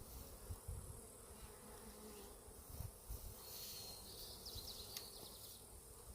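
Faint, steady buzzing of honeybees flying around their hive, a colony stirred up by the hive being knocked over, with a few soft low thumps.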